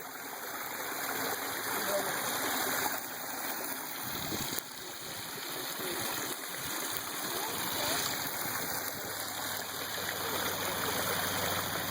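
Small spring-fed waterfall running steadily, an even rush of flowing, splashing water.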